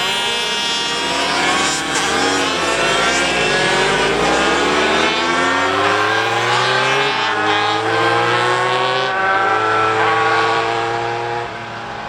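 Several racing motorcycle engines revving hard and accelerating, their pitch climbing through the gears with short dips at the shifts. The sound drops away about a second before the end.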